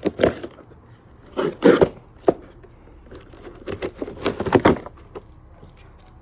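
Fireworks packaging being handled: cardboard and plastic wrap rustling and knocking in a few short, irregular bursts, with a tearing sound among them.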